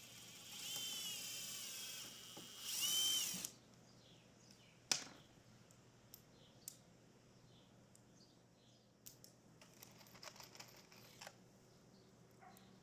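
Power drill running in two short runs, the second louder, each speeding up and slowing down. It is followed by a sharp knock and a few light clicks and rattles from handling tools and parts.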